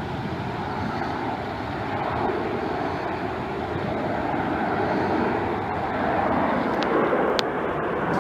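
Aircraft engines running, a steady rushing noise that grows a little louder in the second half, with two brief faint clicks about seven seconds in.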